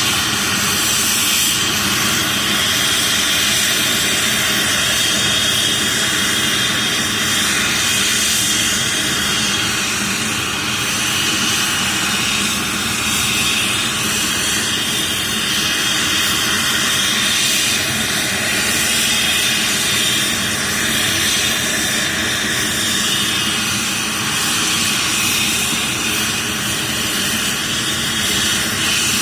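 Airbus H135 helicopter's twin turbine engines and rotor running steadily, with a constant high turbine whine over a broad rushing noise.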